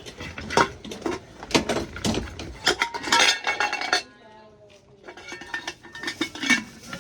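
Metal cookware and utensils being handled: repeated clanks and clinks with a ringing, metallic tail for about four seconds, then a quieter stretch with a few lighter clinks.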